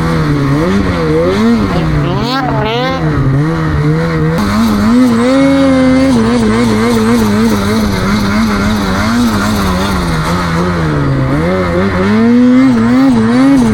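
Snowmobile engine running under constantly changing throttle, its pitch rising and falling in quick waves, held briefly higher about five seconds in.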